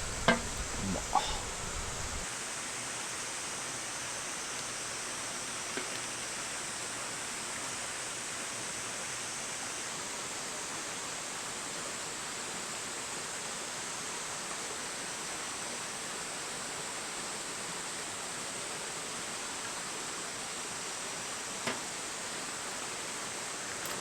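A steady, even hiss, with a few sharp clicks in the first second or two.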